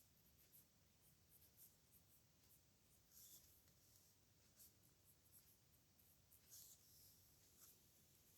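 Faint scratching of a pen nib on paper in short, irregular strokes as characters are handwritten, a little louder about three seconds in and again past six seconds.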